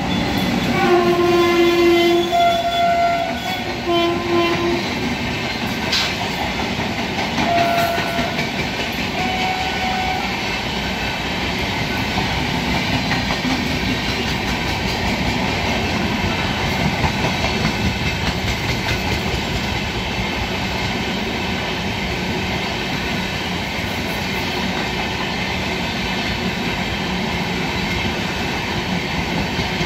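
An electric locomotive's horn sounds twice in the first five seconds, with shorter horn notes a few seconds later. Then the passenger coaches roll steadily past, wheels clicking over the rail joints.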